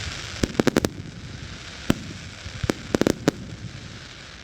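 Fireworks going off: sharp bangs and pops in quick clusters, several in a row about half a second in and again around three seconds, over a steady background hiss.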